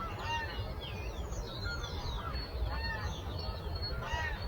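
Birds calling in many overlapping chirps, whistles and short arching calls, over a steady low rumble.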